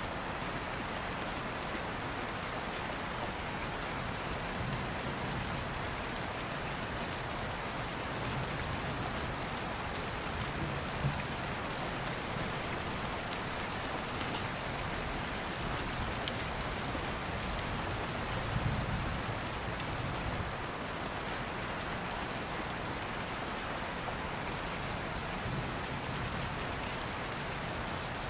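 Steady rain falling. Soft low rumbles of distant thunder swell up about two-thirds of the way through, and a few sharp crackles from an open fire stand out.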